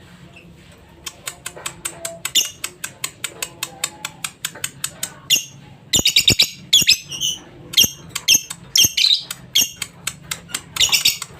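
Lovebird singing: long fast runs of sharp, high chattering chirps starting about a second in, with a denser, louder burst of trills around the middle.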